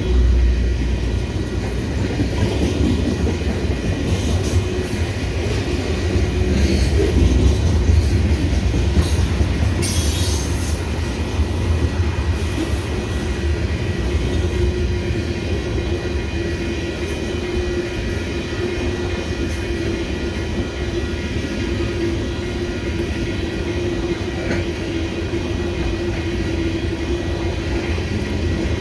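Freight train cars rolling past on the rails: a steady rumble of wheels on track with a constant hum, and brief high-pitched wheel squeals in the first half.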